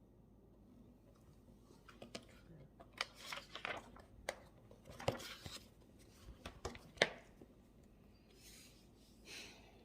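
Handling noises at a study desk: a run of sharp clicks and taps mixed with rustling, the loudest click about seven seconds in. Two soft swishes follow near the end.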